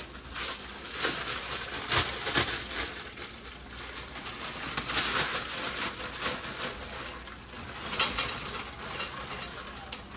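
A plastic bag of frozen vegetables being handled, with crinkling and rattling and a few sharp knocks, the loudest about two seconds in and near eight seconds.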